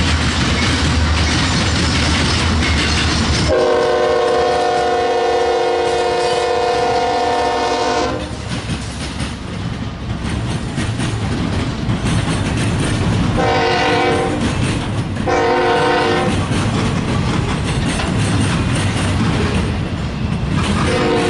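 Locomotive air horn on a passing train: a long chord blast of about five seconds, two short blasts some ten seconds later, and another blast starting near the end. Between the blasts, the steady rumble and clatter of the train on the rails.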